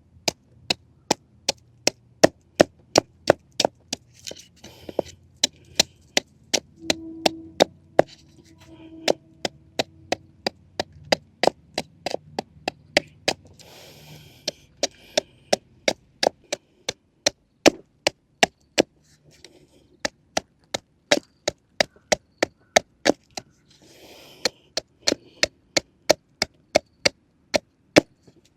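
Wood being chopped: sharp wooden knocks in a steady rhythm of about two to three a second, broken by a few short pauses.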